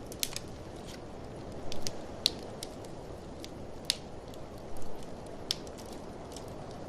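A wood fire crackling in a fireplace, with sharp pops and snaps at irregular moments, over a steady low rush of blizzard wind.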